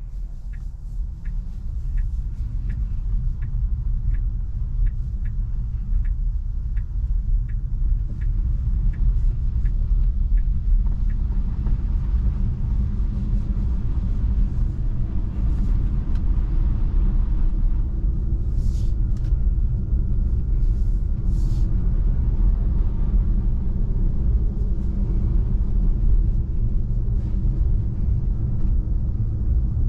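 Tyre and road rumble inside a Tesla Model 3's cabin on a snow-covered road, growing louder over the first ten seconds as the car gathers speed, then holding steady. A light ticking about twice a second runs through the first eight seconds.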